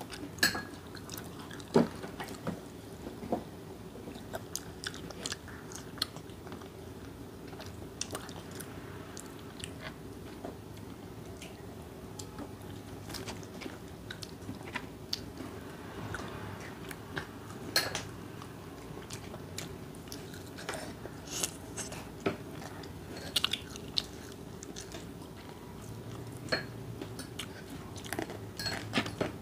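People biting and chewing cheese-powdered fried chicken (Puringkle), with irregular crunches and clicks throughout over a steady low hum.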